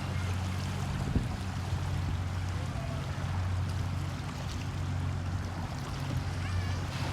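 Steady low engine-like hum over a continuous hiss, with a single sharp knock about a second in.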